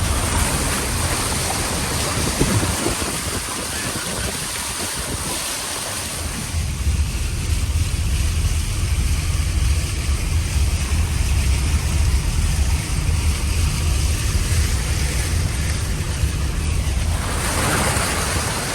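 Vehicle driving through floodwater: a steady wash of water spraying and rushing against the vehicle over a low engine and road rumble, shifting in tone partway through.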